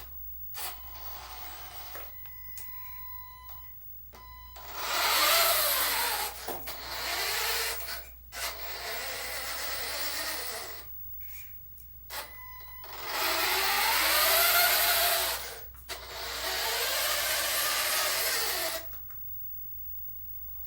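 Huina RC dump truck's small electric motor and gearing whirring in four runs of two to three seconds each, the pitch rising and falling as the speed changes. A few faint high beeps come first.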